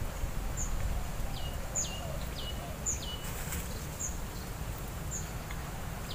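Wild birds calling outdoors: a short high chirp repeats about once a second, and a few quick falling whistles come in the first half, over a steady low rumble.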